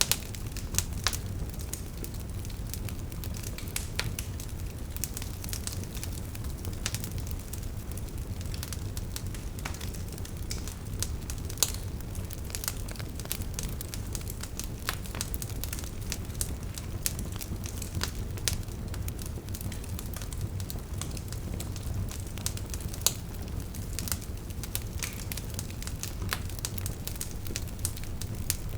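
Wood fire burning: a steady low rumble of flames with many irregular crackles and sharp pops from the burning logs.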